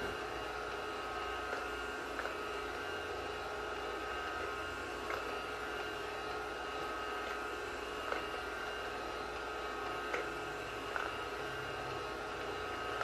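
Wi-Fi vacuum cleaner running steadily: a motor hum with a few whining tones over it, and a handful of light clicks here and there.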